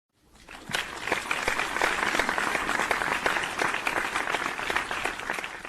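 Crowd applause: many hands clapping at once in a dense, steady patter that builds up within the first second and begins to die away near the end.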